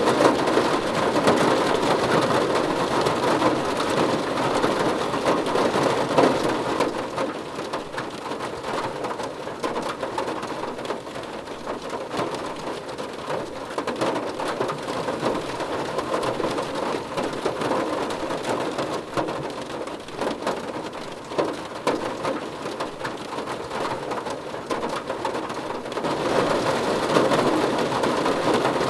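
Steady rain falling, a dense patter of drops on a surface. It is heavier at first, eases off after about six seconds, and swells up again near the end.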